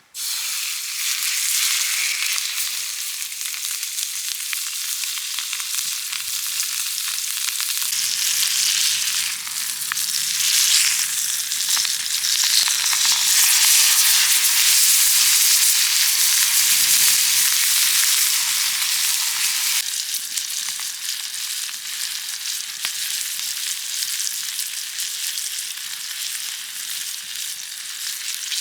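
Food sizzling and frying in a pan, a steady dense hiss with fine crackling, a little louder through the middle.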